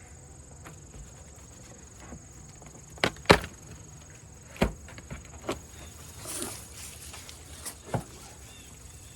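Wooden beehive top being popped off: a handful of sharp wooden knocks and cracks, the loudest about three seconds in, with a brief scrape a little after six seconds.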